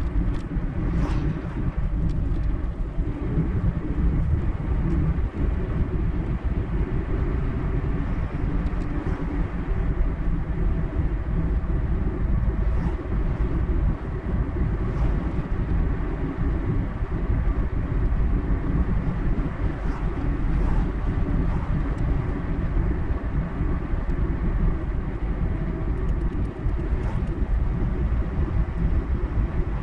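Car driving at road speed: steady low engine and tyre rumble.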